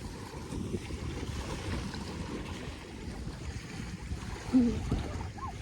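Wind gusting on the microphone over gentle surf at a beach, a steady rushing hiss. A short voice call cuts in about four and a half seconds in.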